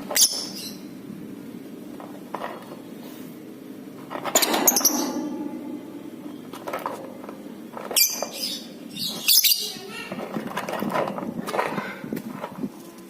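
Lovebird chirping and chattering in shrill bursts, the longest about four seconds in, over a steady low hum.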